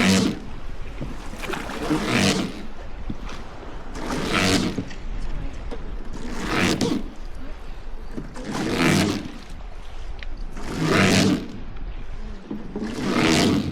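Oars of a wooden river boat rowing in a steady rhythm, about one stroke every two seconds, each stroke a swell of swishing water.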